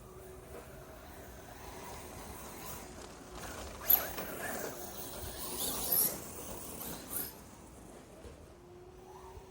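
RC car's drivetrain whirring mechanically, with one sharp impact about four seconds in, followed by a few seconds of clattering and a last click.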